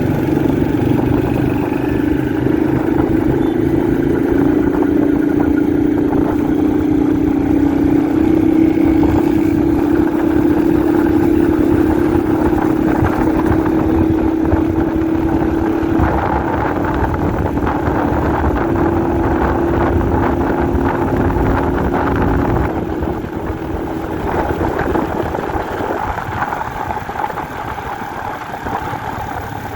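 Honda 125 CDI motorcycle's single-cylinder four-stroke engine running under way. Its note climbs slowly for most of the stretch, then eases off and goes quieter for the last several seconds.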